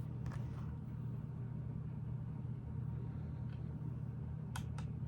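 Steady low background hum, with a few light clicks of plastic Lego pieces being handled and pressed together, the sharpest two in quick succession near the end.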